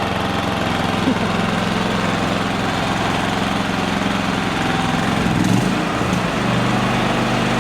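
Duca D4000iSE inverter generator's Vanguard engine running steadily just after an electric start, its speed settling down. About five to six seconds in the engine speed shifts briefly, then holds at a new steady pitch.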